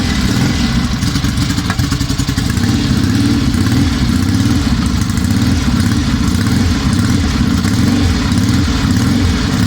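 1963 Norton 650SS parallel-twin engine running steadily, just after firing up for the first time since a complete rebuild.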